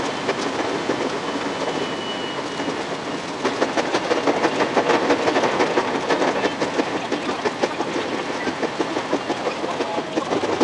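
A 521-series electric train running on rails, heard from inside the cab: a steady rolling rumble, then from about three and a half seconds in a louder, rapid clatter of wheel clicks as it crosses a steel truss bridge.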